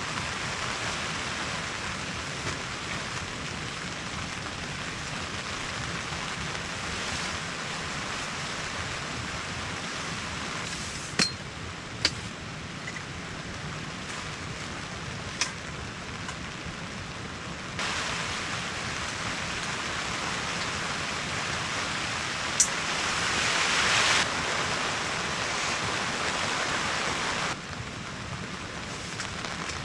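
Steady rain falling, with a few sharp ticks scattered through it. The rain sounds louder through the second half and swells briefly near the end.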